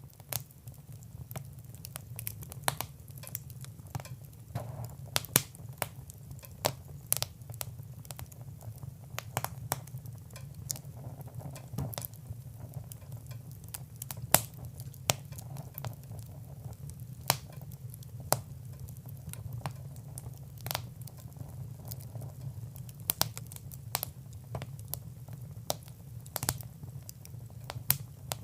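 Fire in a fireplace crackling: irregular sharp pops and snaps, several a second, over a steady low hum.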